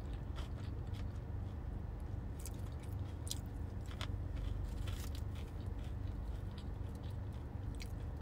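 A person chewing food close to the microphone, with scattered short mouth clicks, over a steady low hum.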